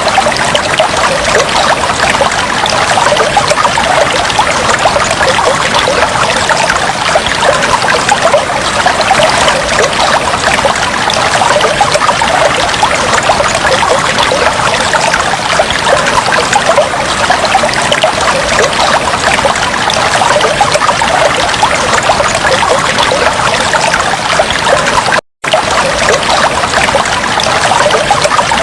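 Aquarium water trickling and bubbling steadily, with a dense patter of small splashes. The sound cuts out for a split second once, about 25 seconds in.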